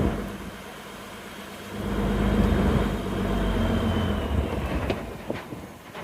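A boat's motor running steadily, with wind noise on the microphone. It grows louder about two seconds in and fades near the end.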